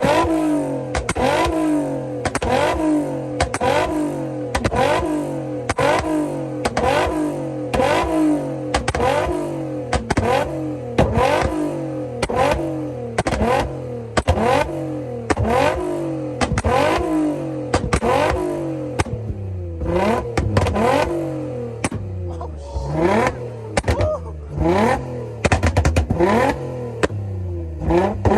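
A car engine revved hard over and over in quick, rhythmic blips, each rise in pitch cut off sharply with a crack, about one and a half a second, over a steady underlying note. In the last third the revs come less evenly.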